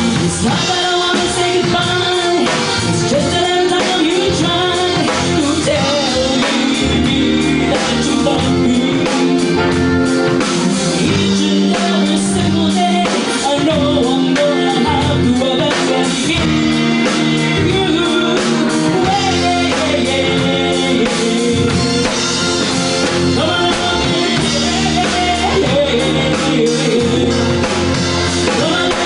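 Pop song playing: a singing voice over guitar and drum kit accompaniment, steady throughout.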